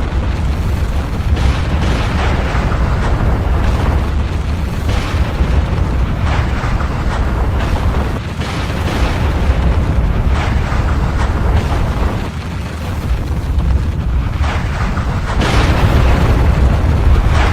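Volcanic eruption: a continuous deep rumble with repeated blasts and bursts on top, easing briefly twice and growing louder near the end.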